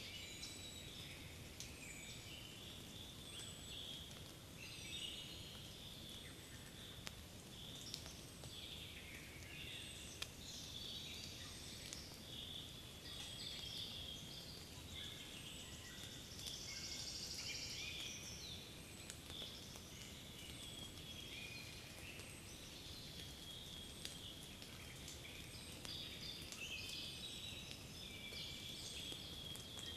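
Spring forest bird chorus: several songbirds singing at once, short overlapping phrases and trills, with a faint steady low background rush.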